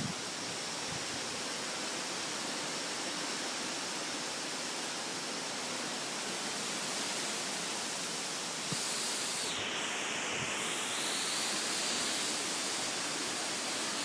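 Strong thunderstorm winds rushing in a steady hiss with no pitch, swelling a little louder for a few seconds past the middle.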